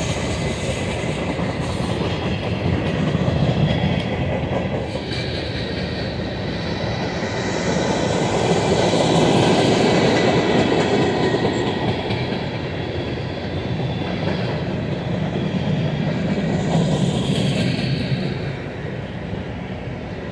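Freight cars of a mixed manifest train rolling past: hoppers, tank cars and centerbeam flatcars. Their steel wheels make a steady rumble on the rail that swells and eases as the cars go by, loudest in the middle and dropping off near the end.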